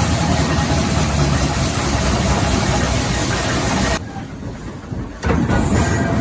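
A heavy machine's engine running steadily. It drops away sharply about four seconds in and comes back just over a second later.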